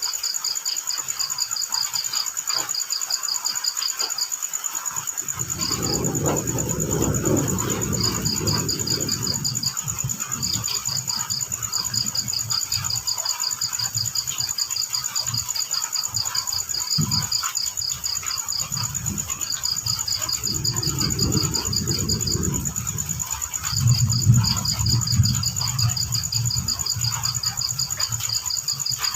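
Night crickets: one keeps up a steady high-pitched trill while another chirps in quick pulsed bursts with short gaps between them, over a faint even hiss. A low rumbling sound swells in and out from about five seconds in.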